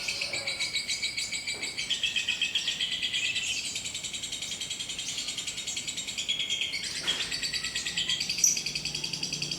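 Lovebird singing one long unbroken run of rapid, high chattering trills (the 'ngekek' of a lovebird), its length being timed in minutes as a measure of the bird's stamina. A short click sounds about seven seconds in.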